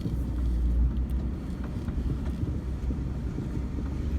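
A vehicle driving slowly over a wet field, a steady low rumble of the engine and tyres, with water sloshing as everything underneath is wet.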